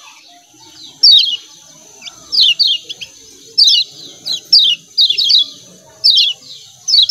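Kecial kuning (Lombok white-eye) giving its rapid 'ciak ciak' call: short, sharp, falling chirps in quick clusters of two to four, repeated about once a second. A faint steady high hiss lies under them.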